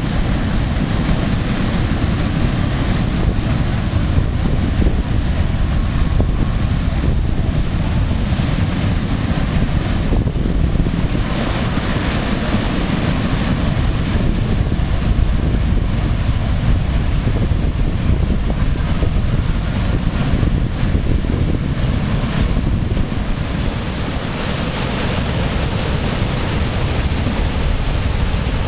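Water of the Periyar Channel rushing steadily along the canal, loud and unbroken, with wind buffeting the microphone.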